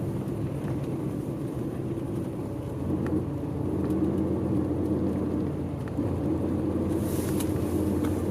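Route bus under way, heard from inside the cabin: steady diesel engine hum with road noise, its pitch shifting slightly a couple of times, and a short hiss about seven seconds in.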